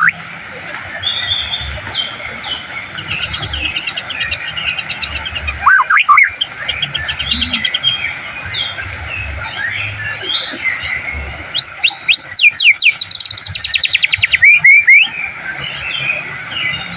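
White-rumped shama (murai batu) singing a loud, varied song of whistles and rapid trills, with a burst of sharp upswept 'shot' notes and fast repeated notes about two-thirds of the way through.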